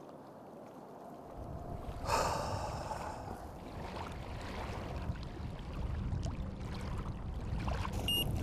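Wind buffeting the microphone over small waves lapping on a gravel lake shore, with a short rush of noise about two seconds in. Near the end, two short high electronic beeps from a carp rod's bite alarm signal a take.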